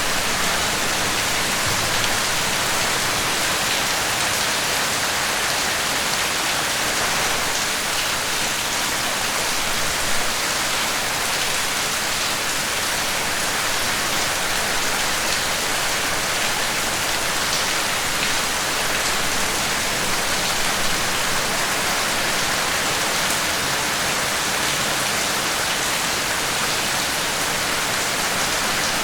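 Steady rain falling, an even hiss of rain on a surface with faint scattered drop ticks.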